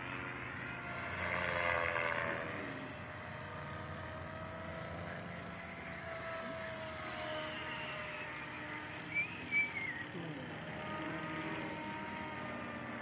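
Align T-Rex 500X radio-controlled electric helicopter in flight, its rotor and motor whine gliding slowly up and down in pitch and loudest about two seconds in, as it is flown on a new pitch curve. Two brief sharp sounds about nine seconds in.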